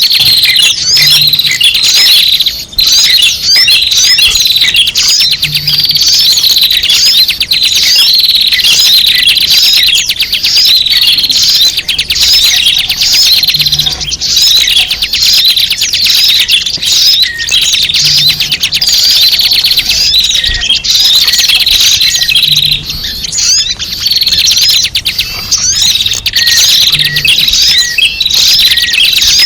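A dense, loud chorus of many small birds chirping and twittering rapidly without pause: a bird-lure (pikat) recording of a noisy flock of small birds.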